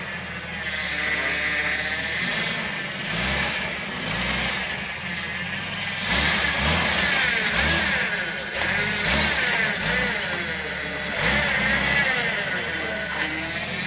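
Engine of a modified Jeep 4x4 running under load as it crawls over deep ruts, revving up and dropping back in repeated surges, louder from about six seconds in.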